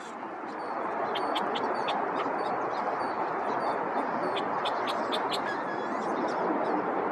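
Birds giving many short, high chips and calls over a steady rushing background noise, which swells during the first second.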